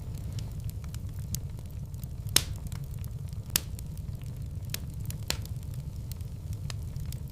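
Wood fire in a fireplace crackling, with scattered sharp pops over a steady low rumble. Two louder pops come about two and a half seconds in and a second later.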